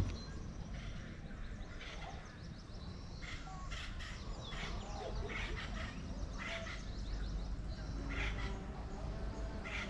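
A bird calling repeatedly in short calls, about one a second, starting about three seconds in, over a steady low rumble.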